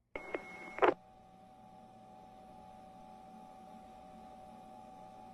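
Police radio channel between transmissions: a short high beep with two sharp clicks in the first second, then a steady electrical hum with faint whining tones.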